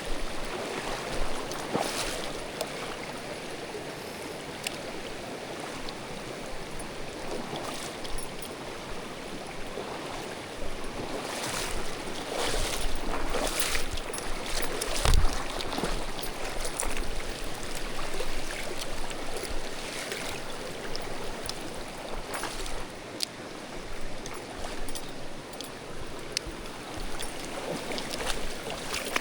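Mountain stream water running and rushing over rocks, a steady noise, with scattered short sharp sounds; the loudest comes about halfway through.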